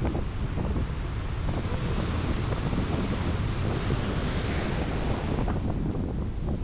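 Strong wind buffeting the microphone over the rush of sea waves. The hiss of the surf swells through the middle and fades near the end.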